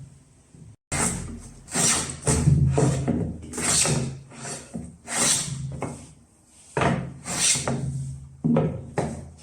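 A hand tool rubbing on wood in a series of separate strokes, about a dozen, each under a second long, like rasping or sanding. A faint steady hum sits under the strokes.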